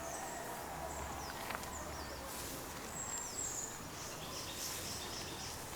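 Quiet outdoor ambience: a steady background hiss with faint, high-pitched bird chirps coming and going.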